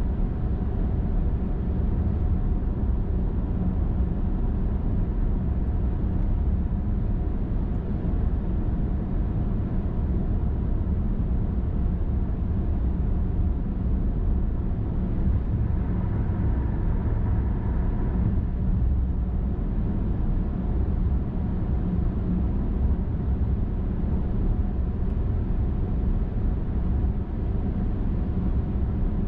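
Steady road noise of a car driving on a highway: a low, even rumble of tyres and engine with a faint steady hum, and a slightly higher hum that swells briefly a little past halfway.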